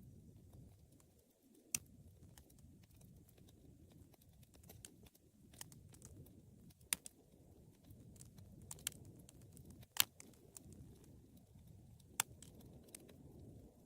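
Wood fire burning in a fireplace: a low steady rumble with light crackling, broken by four sharp pops, the loudest about ten seconds in.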